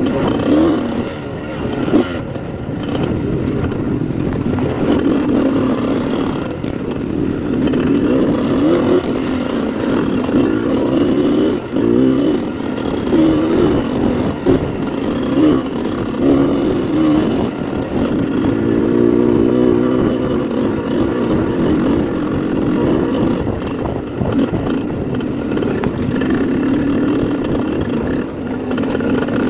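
Dirt bike engine running continuously, its pitch rising and falling with the throttle.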